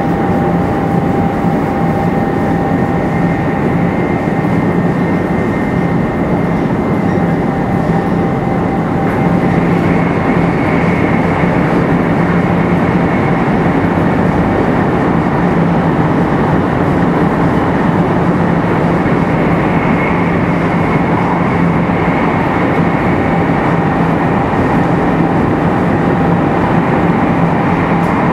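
Running noise of 500 series Shinkansen car 527-7707, which has Toshiba GTO VVVF inverter drive, at steady speed. A constant rumble of wheels and air carries faint steady whining tones, one of which fades about nine seconds in.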